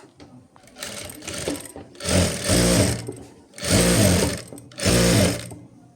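Electric sewing machine stitching in three loud bursts of about a second each, the motor speeding up and slowing down with each one, after a quieter, shorter run about a second in.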